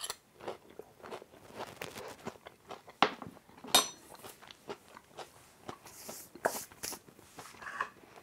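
A person chewing a mouthful of pomelo salad with crispy fried onion and fried garlic: irregular soft crunches, with one sharper click about halfway through.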